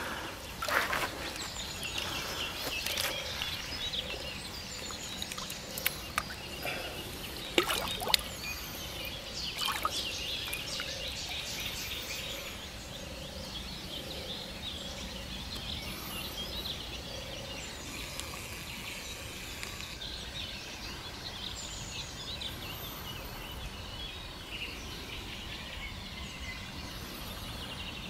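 Birds singing and chirping over steady outdoor background noise, with a few brief sharp sounds in the first ten seconds.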